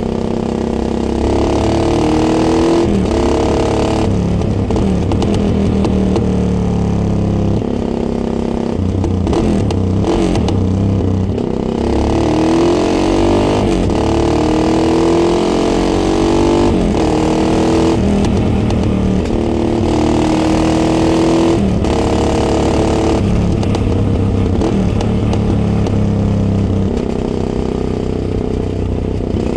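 Yamaha XT660X single-cylinder four-stroke engine under way, picked up by a microphone mounted on the bike. The engine note climbs with the revs and drops at each gear change, again and again, as the bike accelerates and rides on.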